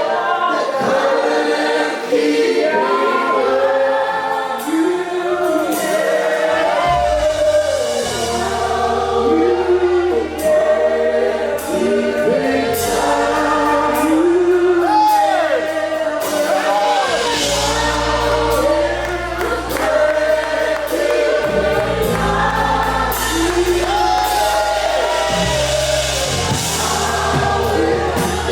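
Gospel worship song: a group of voices singing together, with a sustained bass line and light cymbals joining in about six seconds in.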